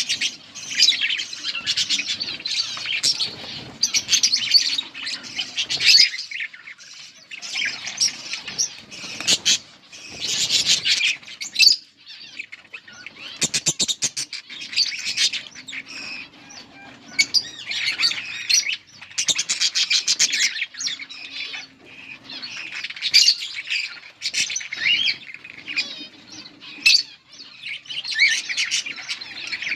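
Budgerigars chattering and chirping rapidly in bursts with short pauses, with a run of quick clicks about halfway through.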